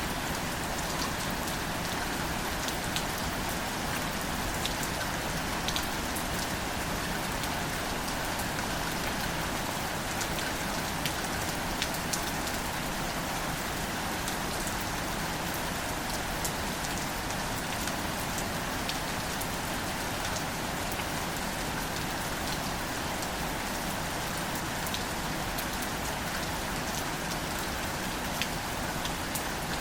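Gentle, steady rain falling on wildflowers and their leaves, a continuous patter with scattered individual drop ticks.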